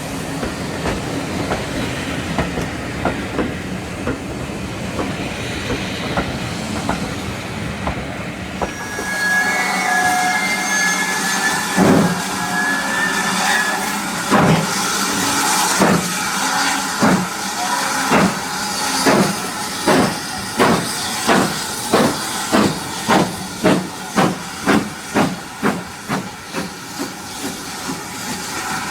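Steam locomotive No. 9351, a GWR-style 2-6-0, getting under way. A steady rolling rumble gives way to hissing steam, then the exhaust beat starts slow, a couple of seconds between chuffs, and quickens to about two chuffs a second, growing fainter near the end.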